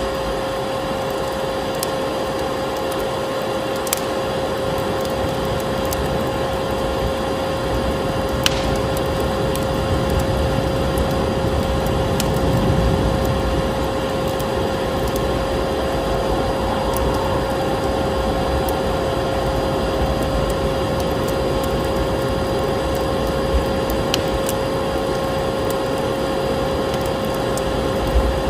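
Vacuum cleaner running steadily with a constant whine, mixed with the crackle of a wood fire in a fireplace: a sharp pop or snap every few seconds over the steady hum.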